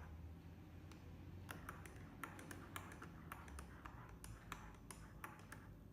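Spoon stirring cappuccino in a coffee mug: faint, irregular light clinks of the spoon against the mug, several a second, starting about a second and a half in.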